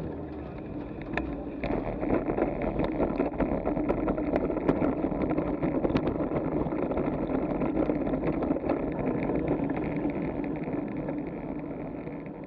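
Bicycle being ridden across a railway bridge: a steady rumble from the tyres and bike, with frequent small clicks and knocks.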